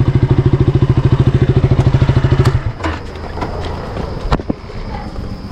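Motorcycle engine idling with an even, fast beat, then switched off about two and a half seconds in; a few knocks and clicks follow, one sharper near the end.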